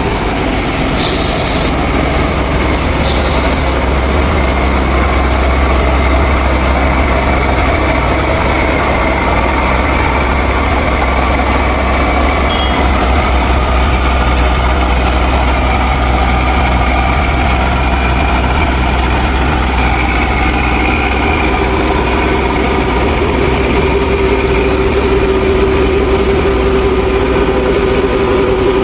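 Steady engine-like drone with a deep hum and a constant mid-pitched tone, running evenly at one speed.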